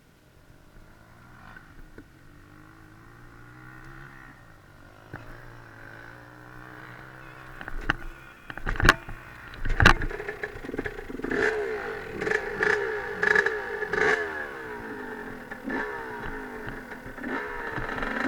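Dirt bike engine revving up and down with changing pitch, growing gradually louder, with two sharp loud clunks about halfway through.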